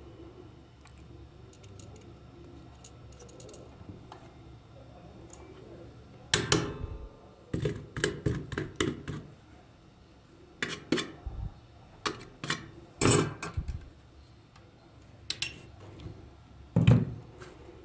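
Small hard parts and tools being handled on a work surface: faint at first, then from about six seconds in a string of sharp clicks, knocks and clatters.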